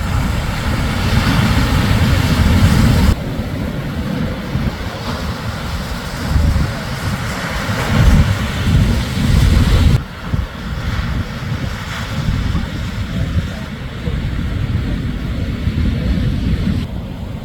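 Shorebreak surf crashing and washing on the beach, with heavy wind rumble buffeting the microphone. The sound shifts abruptly about 3 seconds in and again about 10 seconds in.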